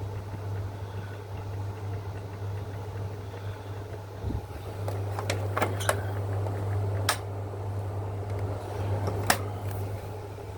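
Gree air conditioner running with a steady low hum. A few sharp clicks come in the second half.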